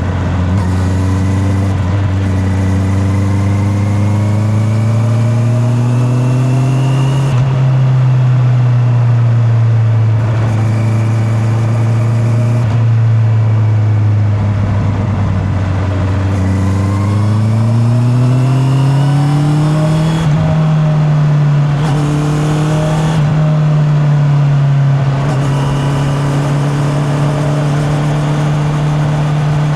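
Honda CB650R inline-four engine under way on the road. Its pitch climbs twice as the bike accelerates, drops back in between and around the middle, then holds steady near the end. The sound is recorded from the rider's back pocket.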